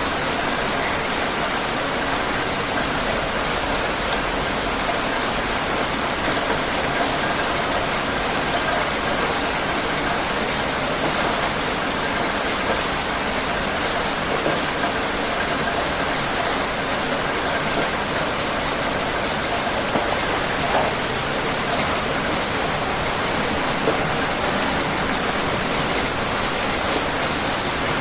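Heavy rain falling steadily on a surface, a dense even hiss with scattered drop patter.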